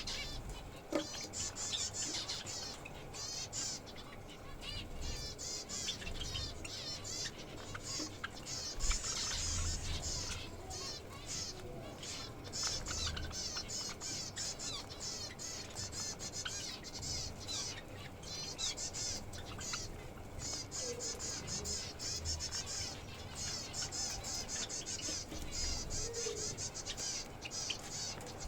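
A flock of small cage birds chirping and chattering continuously, many short, high calls overlapping.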